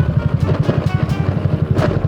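Single-cylinder four-stroke engine of a Honda Wave 110i motorcycle, bored out with a 53 mm piston kit, idling with a rapid, even exhaust beat.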